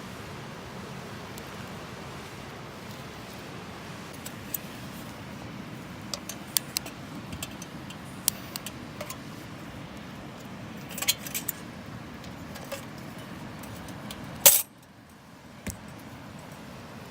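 Light clicks and metallic clinks over a steady rushing background, growing busier in the second half, with one loud clink about fourteen and a half seconds in, after which the rushing stops abruptly.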